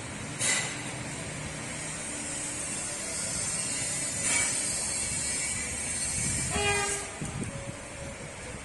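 Train running toward a street level crossing, a steady rumble with two brief loud bursts, and a short horn blast about six and a half seconds in.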